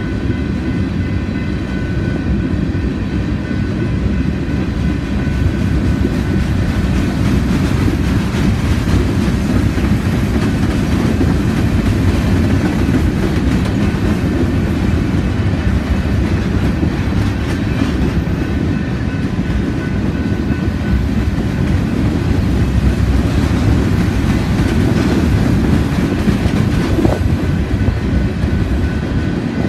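Freight train of gondola cars rolling past close by: a steady rumble of steel wheels on the rails, with scattered clicks as the wheels cross rail joints and a faint high steady whine over the top.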